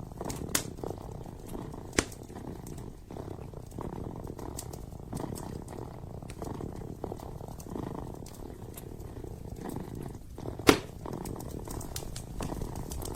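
Kitten purring steadily, with a wood fire crackling: a few sharp pops, the loudest about ten and a half seconds in.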